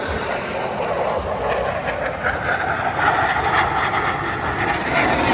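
Aircraft engine noise: a continuous drone with no break.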